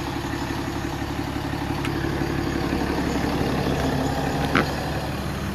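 Car running steadily, a low engine hum with road noise. There are two short clicks, one about two seconds in and a louder one near the end.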